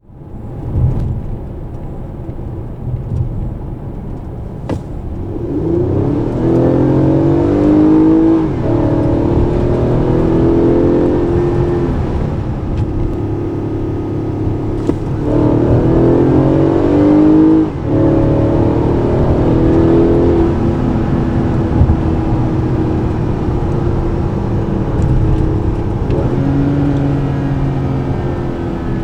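2018 Toyota Alphard's 3.5-litre 2GR-FKS V6 under hard acceleration through its eight-speed automatic. The engine note starts suddenly and climbs in pitch. It drops back at upshifts, twice clearly, and is steadier toward the end.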